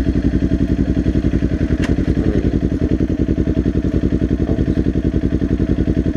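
Kawasaki Ninja 400's 399 cc parallel-twin engine idling at a stop with a steady, even pulse.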